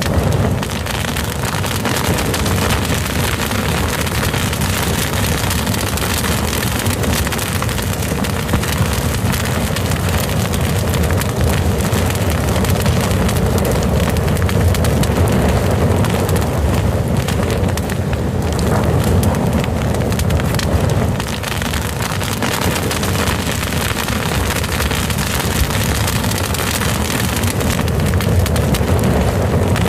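Fire burning with a dense, steady crackle over a low rumble.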